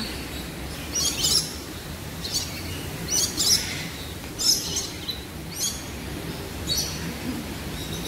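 Birds in a walk-through aviary giving short, high chirps, about one a second, over a low steady background noise.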